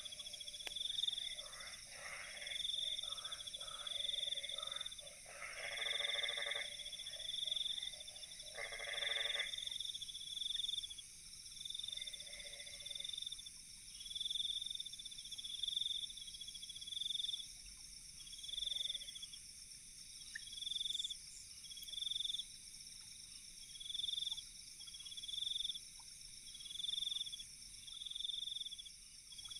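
Night chorus of insects and frogs. A steady high insect trill runs under a higher call that pulses about every second and a half. Loud frog croaks come in the first ten seconds and then mostly stop.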